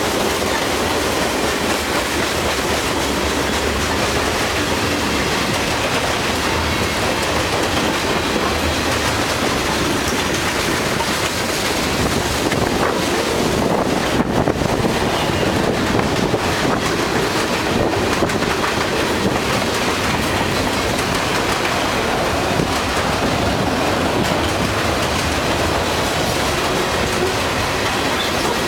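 A CSX freight train's cars rolling past close by, with steady wheel noise and clickety-clack over the rail joints.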